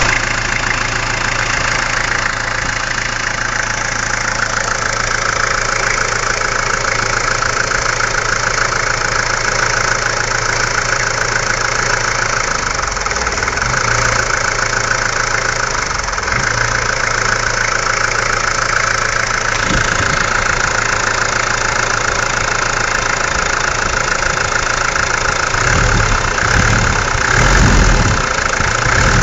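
Mahindra MM 540 DP diesel engine idling steadily, with a brief rise in level a little before the end.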